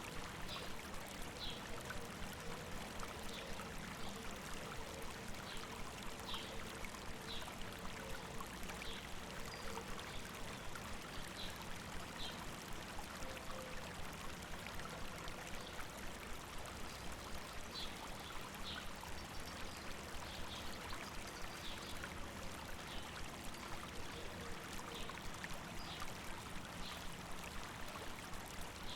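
A river babbling steadily, with short high bird chirps every second or two over the water.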